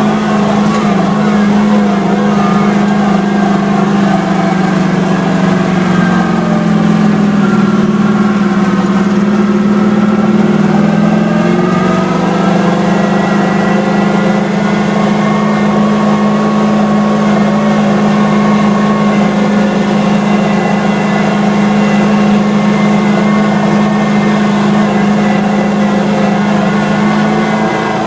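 A motor vehicle's engine running steadily, its pitch wavering a little through the first dozen seconds and then holding even.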